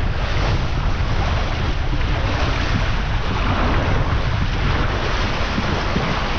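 Water rushing along a tube slide as a rider slides down, with wind buffeting the microphone; a steady loud rush with a heavy low rumble.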